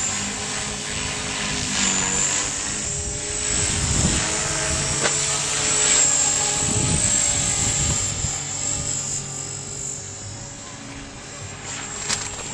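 Electric 450-size RC helicopter (a Trex 450 clone) in flight: a high, steady motor and gear whine that wavers slightly with rotor speed, over a lower rotor hum.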